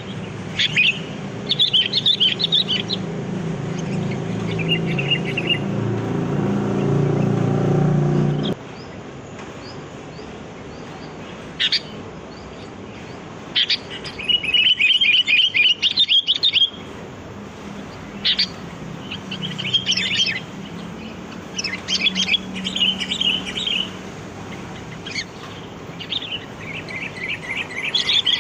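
Sooty-headed bulbul (kutilang) calling: short bubbly chirping phrases repeated every second or two, densest about halfway through. A low rumble runs underneath for the first third and cuts off suddenly.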